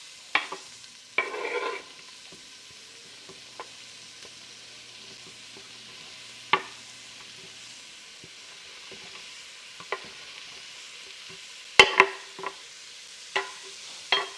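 Food sizzling steadily in a frying pan, with a cooking utensil knocking and scraping against the pan every few seconds as it is stirred. The loudest knocks come near the end.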